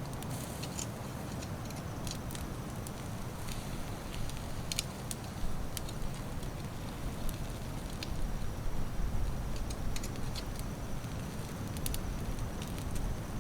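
Fire under a grill of steaks crackling, with scattered sharp pops over a steady low rumble.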